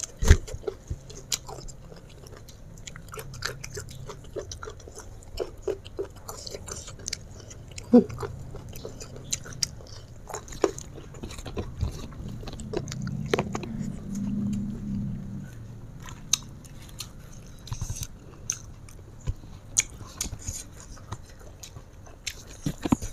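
Close-up eating sounds: a person chewing mouthfuls of fried fish, rice and sambal eaten by hand, with frequent wet mouth clicks and lip smacks.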